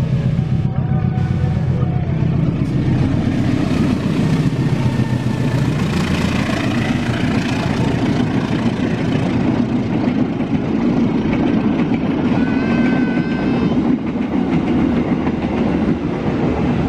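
A passenger train passing close by: the diesel locomotive's engine running as it goes past, then the coaches rumbling and clattering over the rails. A few brief high squeals from the wheels come about three quarters of the way through.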